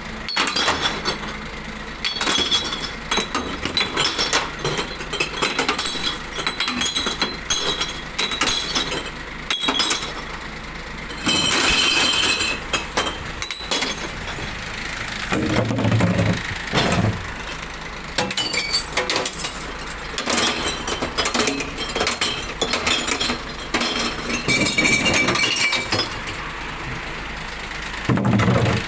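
Glass bottles and jars clinking, clattering and breaking against one another in many rapid, irregular knocks as they are sorted into a glass recycling truck's compartments. A few heavier thuds come about halfway through and near the end.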